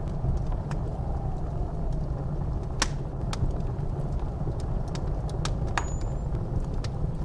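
Wood fire crackling with scattered sharp pops over a steady low roar of blizzard wind, with a faint wind whistle that rises and falls.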